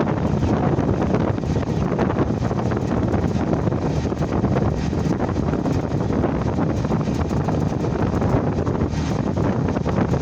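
Wind buffeting the microphone: a steady, heavy low rumble of wind noise without a break.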